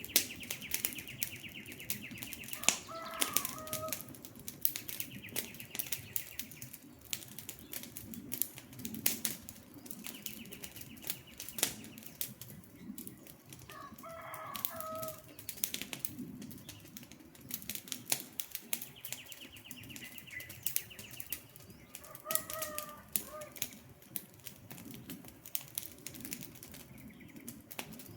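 Campfire crackling with frequent sharp pops, with birds calling in the background. A high trill repeats every few seconds, and a short, lower two-part call comes three times, about ten seconds apart.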